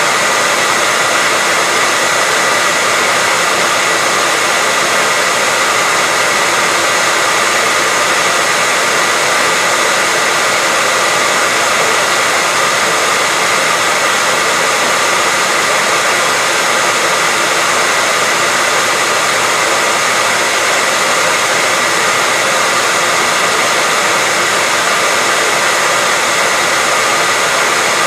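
Hair dryer running steadily: a constant airy rush with a steady whine running through it, used as white noise to lull a baby to sleep.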